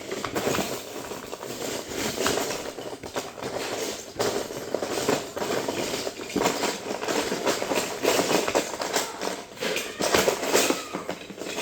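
Plastic Lego bricks clattering and rattling as a pile of loose pieces is rummaged through, a dense run of small clicks with louder bursts.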